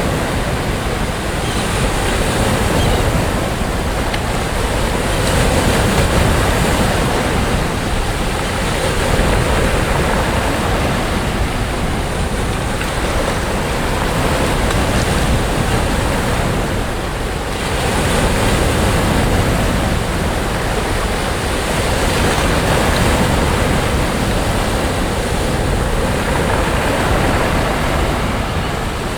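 Sea waves breaking and washing up on a sandy beach, in a continuous rush that swells and eases every few seconds, with wind buffeting the microphone.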